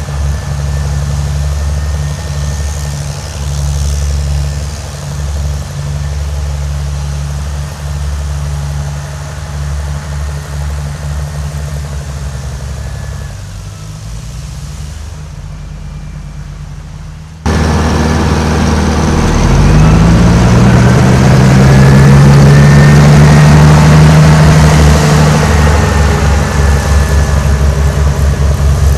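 Snowblower engine running steadily. After an abrupt cut about two-thirds of the way through, it is louder and its pitch rises and holds higher, as if revved up or working harder.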